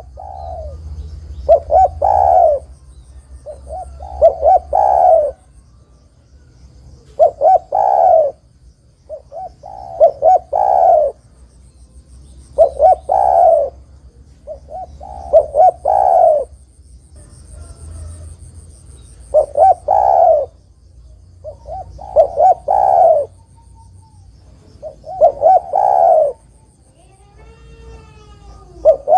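Spotted dove (tekukur) singing: a gravelly multi-note cooing phrase repeated every two to three seconds, about ten times, with a faint high trill in the background.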